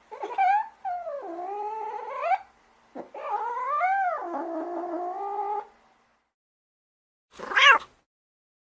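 A cat yowling: two long, wavering drawn-out meows of about two and three seconds, then a short sharp meow near the end.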